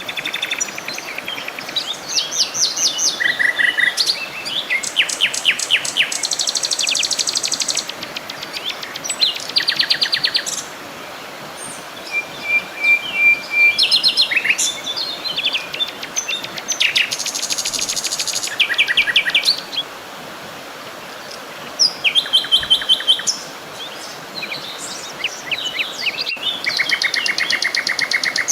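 Several songbirds singing with rapid, overlapping trills and chirps, over a faint steady background hiss.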